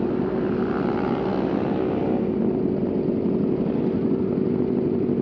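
Sport motorcycle engine running at steady high revs while riding, its note holding level throughout.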